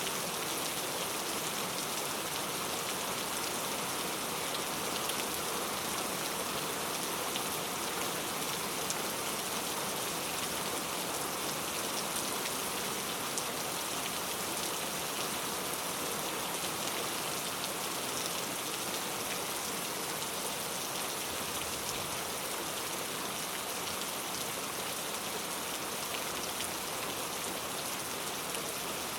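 Steady rain falling and pattering on a surface, an even hiss with fine scattered drop ticks and no change in intensity.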